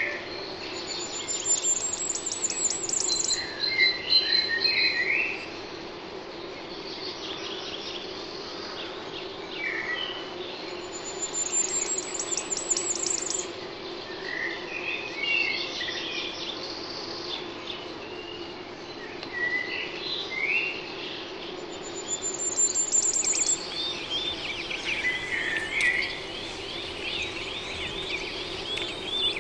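Songbirds singing: a phrase made of a fast high trill followed by lower chirps recurs about every ten seconds, over a steady low hum.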